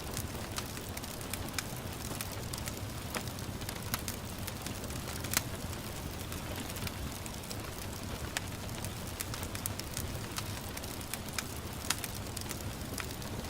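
Wood fire crackling, with scattered sharp pops, over a steady hiss of gentle rain.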